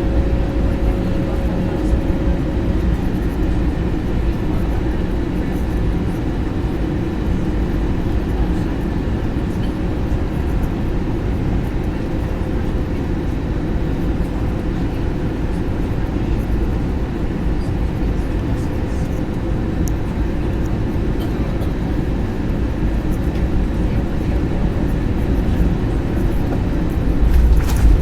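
Steady engine and airflow noise inside an airliner cabin during the approach to landing, growing louder near the end.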